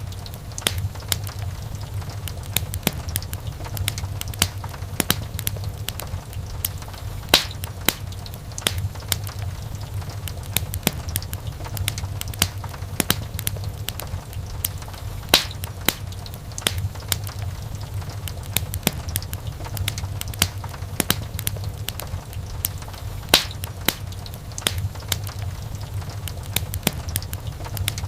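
Wood fire in a fireplace crackling: frequent irregular sharp pops and snaps, a few much louder cracks, over a steady low rumble of the burning flames.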